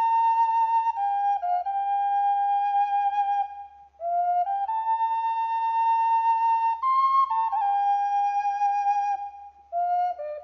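Background music: a single flute line playing a slow melody of long held notes, in phrases with short breaks between them, about four seconds and nine and a half seconds in.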